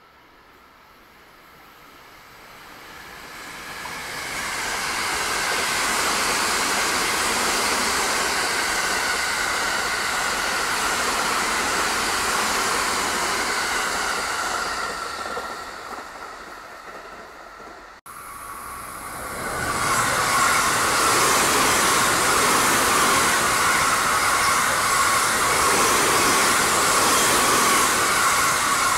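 Two electric passenger trains passing at speed, each a steady rolling rush of wheels on rail. The first swells in over a few seconds, holds, then fades. A hard cut about two-thirds in brings the second train, which starts at once and stays louder to the end.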